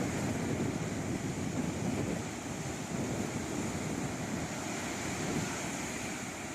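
Atlantic Ocean surf washing in steadily, with wind on the microphone.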